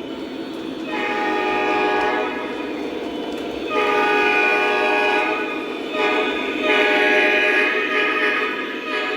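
Electronic diesel horn of a Lionel Legacy SD40-2 model locomotive's onboard sound system, sounding four blasts (long, long, short, long), the grade-crossing signal, over steady running noise.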